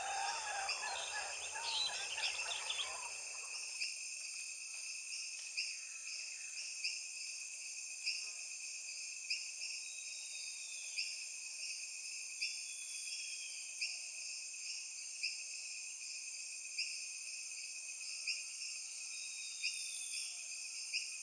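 Insects trilling steadily on several high pitches, with a louder chirp pulsing about every second and a half, and a few birds calling in short whistled glides; the bird calls are busiest in the first few seconds.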